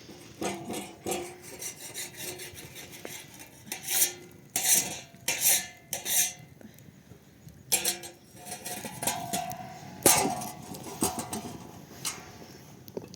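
Metal pots, dishes and utensils being handled: irregular clinks and knocks with some short scraping strokes, a few of them ringing briefly.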